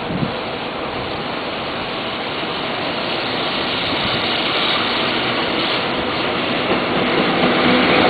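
Steady rumble of a train that grows gradually louder toward the end as a blue-train sleeper, headed by an electric locomotive, draws near and alongside.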